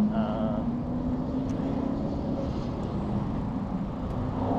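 Wind buffeting the microphone and road noise on a moving e-bike, with a steady low hum that slowly rises in pitch.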